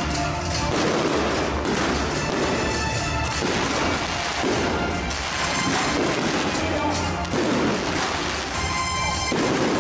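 Fireworks going off in a rapid, continuous barrage of bangs and crackles, over loud music.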